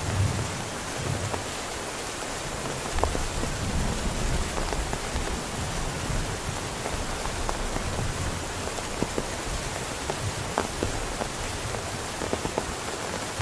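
Heavy rain falling steadily, with scattered louder drops ticking close by. Low rumbles come and go underneath, the longest starting about three seconds in.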